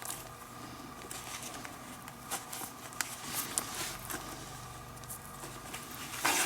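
Leather lace being worked through a baseball glove's lace holes: soft rubbing and scraping of leather on leather with scattered light ticks, and a louder rasp of the lace being drawn through near the end.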